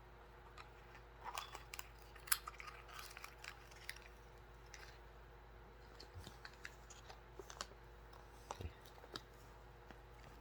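A cockatoo's beak crunching and clicking at something, faint, sharp and irregular, busiest in the first few seconds.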